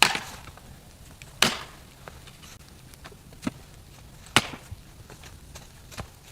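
Wood being chopped: three hard blows, at the start, about a second and a half in and about four and a half seconds in, with two lighter knocks between and near the end.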